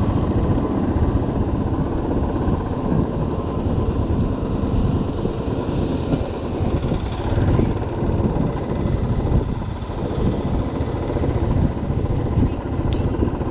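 Motorcycle running steadily on the road, heard from the rider's position, its engine mixed with dense low road and wind noise.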